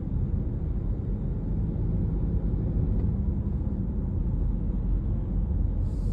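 Steady low rumble of engine and road noise inside the cabin of a moving Honda CR-V with the 1.5 L L15 turbo engine. No ticking is heard: the owner says the engine's tick has gone.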